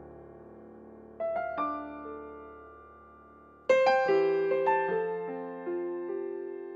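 Piano playing an instrumental passage between the verses of a slow hymn-like song: a held chord fades away, a few notes are struck about a second in, and a louder chord near the middle is followed by a gentle run of notes, each ringing and dying away.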